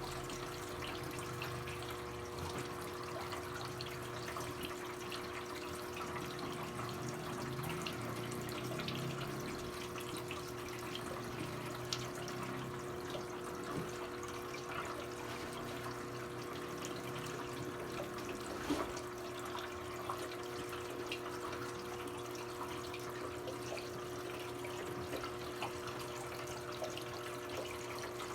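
Brastemp BWK17 17 kg washing machine filling with water early in its quick cycle: a steady flow of water into the drum with a constant hum running under it. A couple of small clicks stand out briefly.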